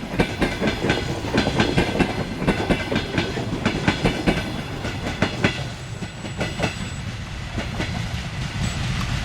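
A passenger train passing, its wheels clicking rhythmically over the rail joints over a steady rumble. The clicks grow sparser and quieter about six seconds in.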